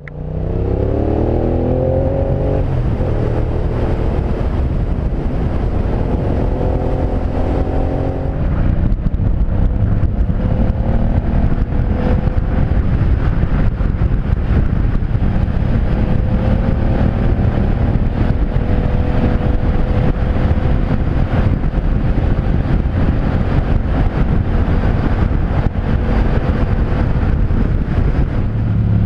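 Aprilia Caponord's V-twin engine and exhaust pulling hard, rising in pitch through one gear, shifting about three seconds in and rising again. From about eight seconds in it settles to a steady cruise under a growing rush of wind. The exhaust's butterfly valve has been modified to stay always open.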